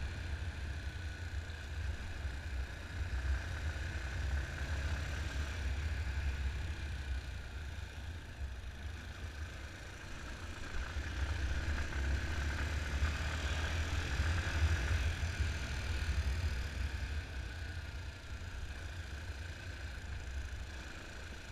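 Yamaha Fazer 250 single-cylinder motorcycle engine running on the move, under a heavy low rumble, its level swelling and easing off.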